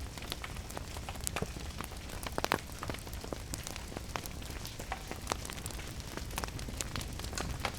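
Wood fire crackling with frequent irregular sharp pops and snaps, over a steady low rumble and a continuous hiss of rain.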